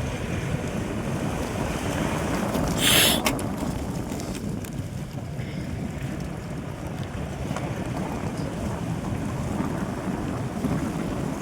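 Vehicle driving, a steady low rumble with wind buffeting the microphone. About three seconds in there is a brief loud hissing rush.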